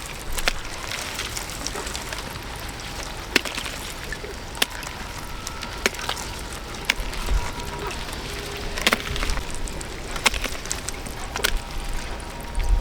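Water splashing, with scattered sharp slaps and knocks at irregular intervals over a steady hiss.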